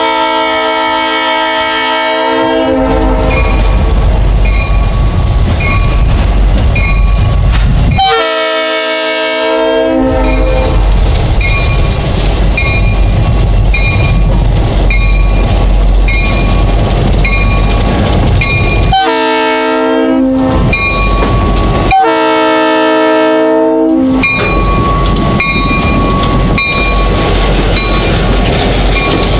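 Diesel freight locomotive sounding its horn in four blasts, long, long, short, long, the grade-crossing signal, over the steady low rumble of its engine. A bell rings about one and a half times a second between the blasts.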